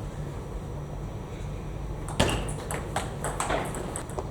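Table tennis rally starting about two seconds in: a celluloid-type ball clicking sharply off the rackets and the table in quick succession, a few clicks a second.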